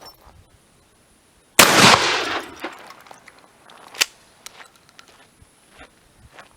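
A 12-gauge shotgun fires a 1-ounce rifled slug once, about a second and a half in, and the blast rings out for about a second. A single sharp click follows about two and a half seconds later.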